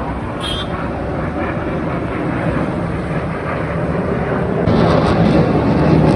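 Fighter jet flying past, a loud low rumbling roar that swells louder about three quarters of the way through.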